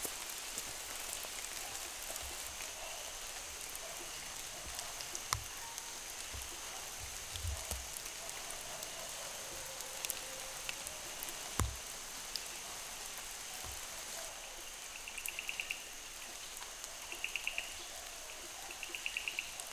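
Steady rain falling through forest foliage, with scattered single drops ticking and a few heavier drops landing close by. Late on, an insect chirps in short rapid trills, repeated about every two seconds.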